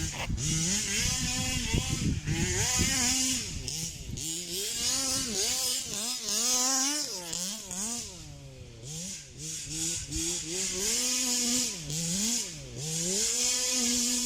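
Zenoah G320 two-stroke engine of a 1/5-scale Rovan Baja petrol RC car with a VRC big-bore exhaust, revving up and down again and again as the car is driven, the pitch rising and falling about once a second.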